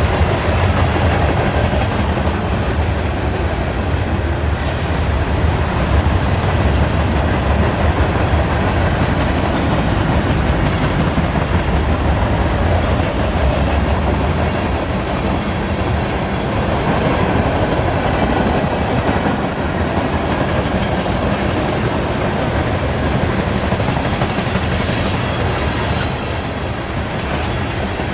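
A CSX freight train rolling steadily past on the rails: a continuous loud rumble of wheels on track.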